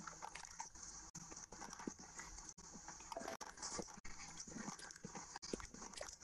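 Close-miked chewing and mouth smacking of a person eating luchi (fried puffed bread) with curry: quick, irregular smacks over a steady high hiss.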